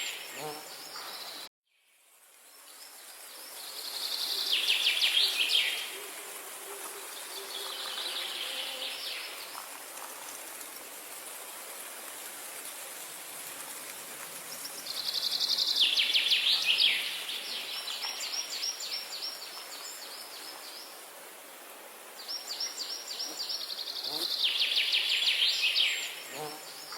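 A songbird singing repeated phrases of rapid trilled notes, each one to two seconds long, with a steady hiss of outdoor ambience beneath. The sound cuts out about a second and a half in and fades back in.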